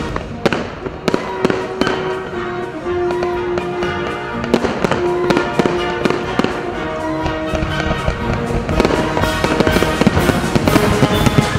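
Aerial firework shells bursting in many sharp, irregular bangs and crackles over background music with held notes. The bangs come thicker and louder near the end.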